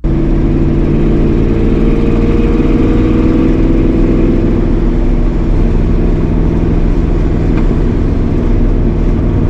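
A 1965 Mustang's 302 small-block V8 with headers, running steadily. Its driver's-side header gasket is leaking exhaust.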